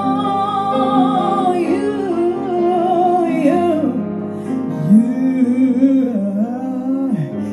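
Female vocalist singing a long, wavering melodic run without clear words, drawing out a word between phrases, over live piano accompaniment.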